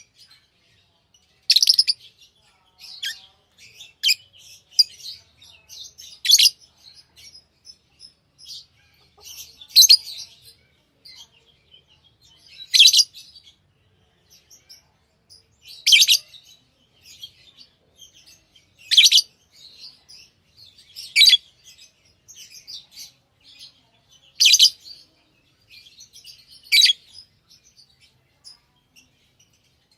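Pet lovebirds chirping: a sharp, loud, high call every two to three seconds, with softer chirps and chatter in between.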